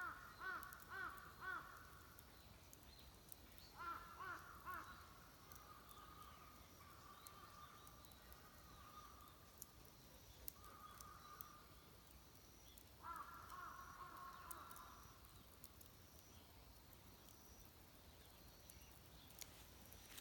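Crows cawing faintly in several short runs of three or four caws, over a near-silent background.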